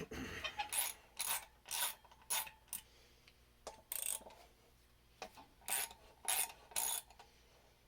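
Small hand ratchet clicking in short rasping strokes, in groups with pauses, as it backs out the 6 mm bolts holding a motorcycle's front brake rotor to the wheel.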